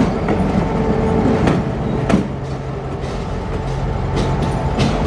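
Train running on the rails: a steady low rumble with sharp clicks and knocks at uneven intervals, as wheels pass over rail joints.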